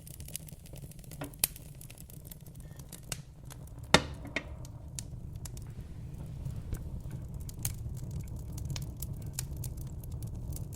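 Wood fire crackling in a fireplace: scattered sharp pops and snaps over a low steady rumble of the flames, with one loud pop about four seconds in.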